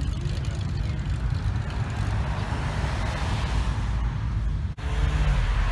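Car engines rumbling as cars drive past, with tyre and exhaust noise swelling in the middle and a brief break in the sound about three-quarters through.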